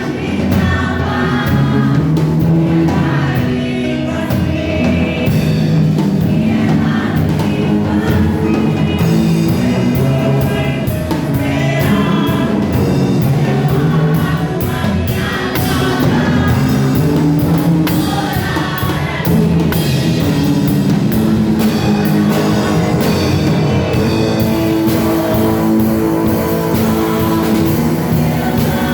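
Worship music: a group of voices singing a praise song over band accompaniment, with a steady drum beat coming in about a third of the way through.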